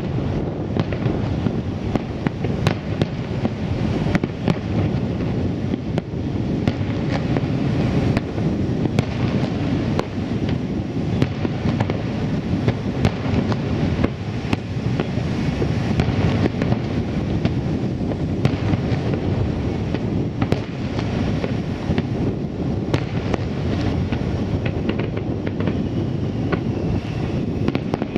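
Aerial firework shells bursting one after another in a dense barrage: continuous low booming with many sharp crackles on top.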